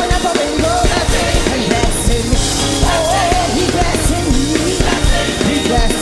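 Live gospel praise band music: a drum kit keeps a steady beat under a melody line that bends and wavers in pitch.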